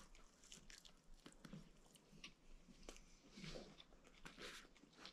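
Faint sounds of someone biting into and chewing a soft taco, with a few soft clicks.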